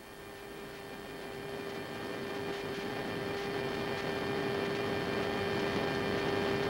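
A steady hum with a hiss behind it, slowly growing louder.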